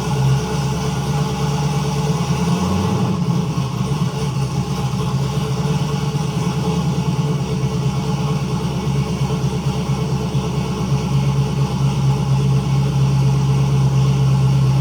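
Turbocharged LS V8 engine of a third-generation Camaro running steadily, a loud even low hum with little change in speed.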